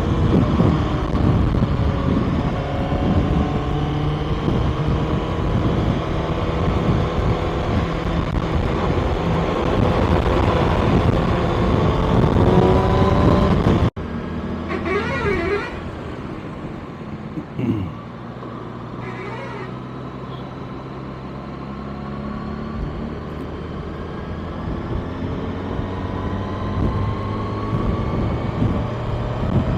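Motorcycle engine running while riding, its pitch rising and falling with the throttle and gear changes. About halfway through the sound cuts to a quieter engine and road noise, with two short vehicle horn toots soon after.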